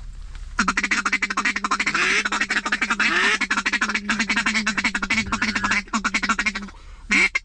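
Hunter's duck call blown in a fast, unbroken feed chatter for about six seconds to work circling ducks. Near the end it switches to separate loud quacks.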